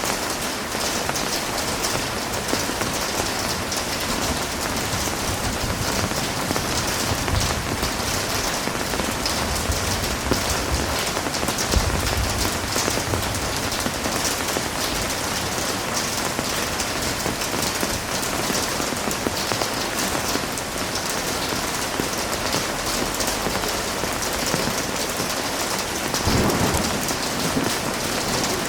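Heavy rain falling steadily, a dense even hiss of drops. Low rumbles come in twice, about twelve seconds in and again near the end.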